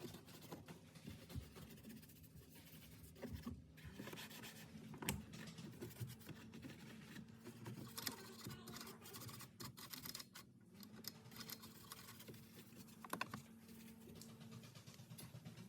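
Faint scratchy rubbing with scattered light clicks: plastic interior trim being cleaned by hand, scrubbed and wiped down.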